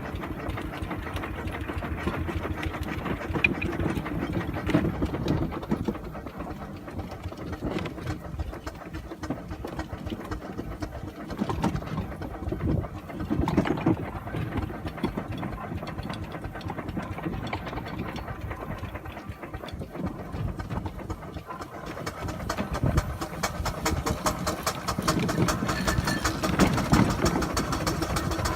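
6-inch scale Burrell double-crank compound showman's steam engine on the move, its motion and exhaust beating in a quick, even clatter that grows louder over the last few seconds.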